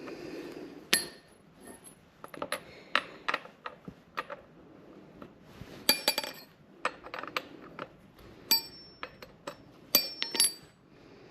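Chainsaw bar and chain being taken off and handled with metal tools: scattered sharp metal clinks and knocks, several ringing briefly, in small clusters.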